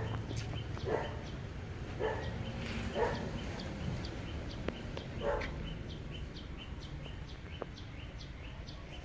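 A dog barking, short barks about once a second, stopping about five seconds in. Faint high chirps continue in the background.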